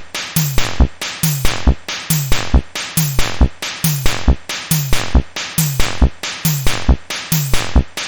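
Cybergrind music: a programmed drum-machine loop of kick and snare hits, each cycle with a short falling low synth sweep, repeating evenly a little faster than once a second.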